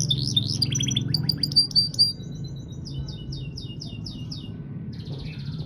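Domestic canary singing a long unbroken song of rapid trills and rolls, with a run of quick falling notes repeated about six times a second in the middle, over a steady low hum.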